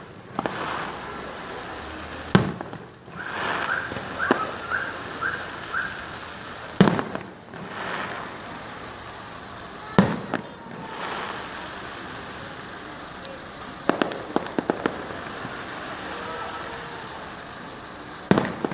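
Fireworks bursting: loud bangs every few seconds and a quick cluster of crackling pops about fourteen seconds in, over a steady hiss.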